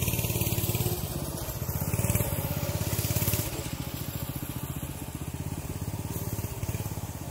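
Minibike's small single-cylinder engine running with a rapid, even pulse. It gets louder for a second or so around the middle, then settles back.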